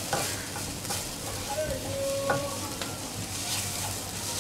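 Onion masala sizzling in oil in a non-stick kadhai while it is stirred with a spatula: a steady frying hiss with the spatula scraping and knocking against the pan, the sharpest knock a little past halfway.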